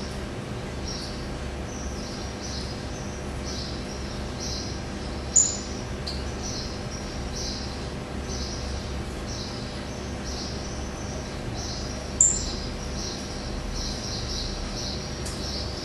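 Caged songbird calling: a steady series of short high notes roughly once a second, coming faster near the end. Two sharp, much louder high chirps, one about five seconds in and one about twelve seconds in.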